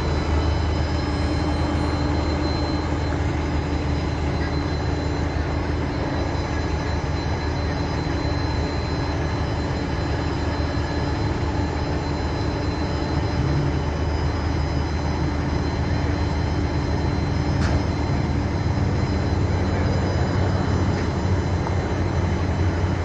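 Steady low rumble of a running vehicle, with faint steady hums above it and a single brief click late on.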